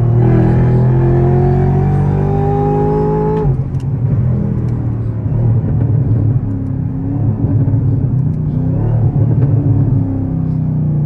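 Chevrolet Camaro ZL1's supercharged V8 accelerating hard, its pitch climbing for about three and a half seconds, then breaking off suddenly into a lower, rougher rumble before settling back into a steady drone near the end.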